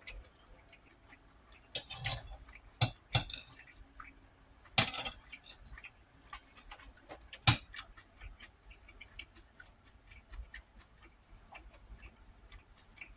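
Eating sounds: scattered clicks and clinks of a utensil on a plate, with a few short noisy bursts of chewing and mouth sounds, the loudest about two, five and seven and a half seconds in.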